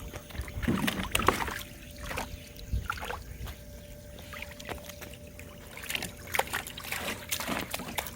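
Dog splashing in shallow pool water, a run of irregular splashes and sloshes as she works at getting her ball out, over a faint steady hum.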